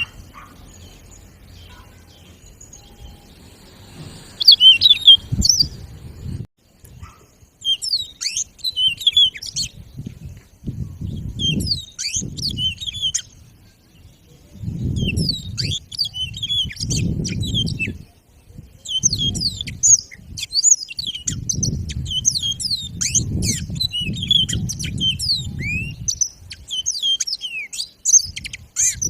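Yellow-fronted canary (Mozambique finch, granti form) singing: repeated phrases of quick, high, sweeping chirps and twitters with short pauses between them, starting about four seconds in and becoming nearly continuous in the second half.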